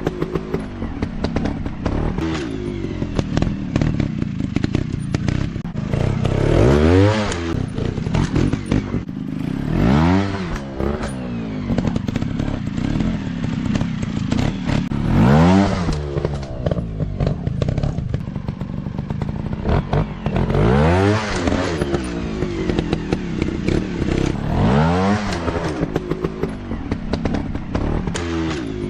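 Dirt bike engine revving, its pitch rising and falling over and over about every four to five seconds, with clattering and scraping mixed in.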